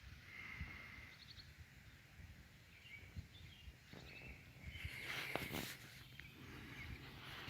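Faint outdoor ambience with distant bird chirps and short trills, and a brief rustling noise about five seconds in.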